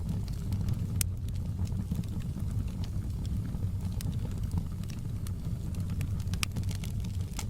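Fire burning in a fireplace: a steady low rumble with scattered sharp crackles and pops, one louder pop about a second in.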